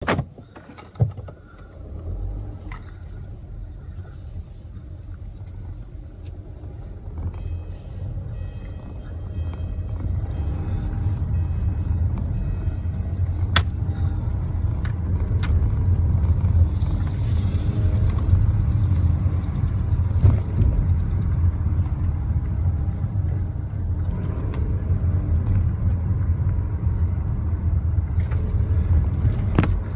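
Car engine and road rumble heard from inside the cabin, a steady low drone that grows louder over the first fifteen seconds or so and then holds. There are scattered clicks and a sharp knock about a second in.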